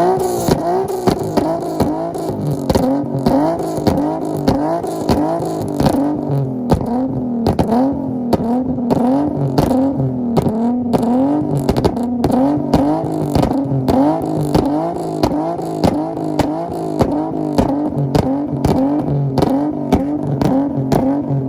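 Infiniti's VQ-series V6 revved hard against the limiter, its note bouncing up and down over and over with sharp crackles throughout, then cutting off just after the end.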